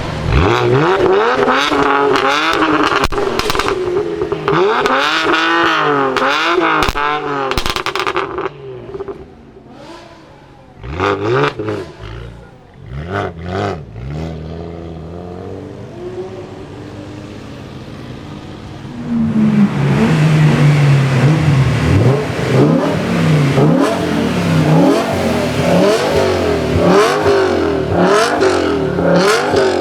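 BMW performance car engines revving and accelerating, the pitch climbing and dropping again and again. There are sharp single revs in a quieter stretch in the middle, and a run of loud, quick, wavering revs near the end.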